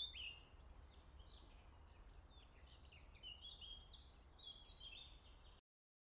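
Birds chirping outdoors: many short, quick, down-slurred chirps, loudest at the start and then fainter, over a faint low rumble. The sound cuts off suddenly about five and a half seconds in.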